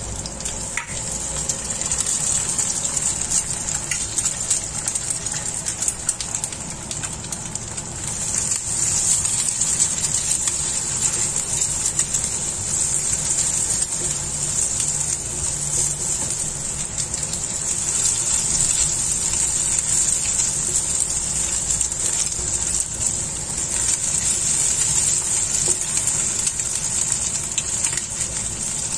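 Egg frying in hot oil in a nonstick frying pan: a steady sizzling hiss that grows louder about a third of the way in.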